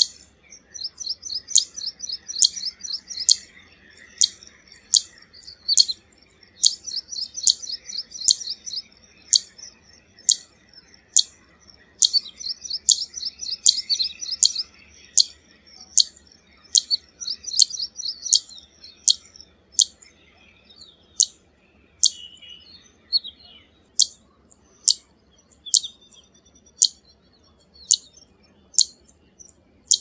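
Zitting cisticola calling: a sharp, high 'zit' repeated about twice a second, with stretches of rapid twittering notes in between during the first two-thirds.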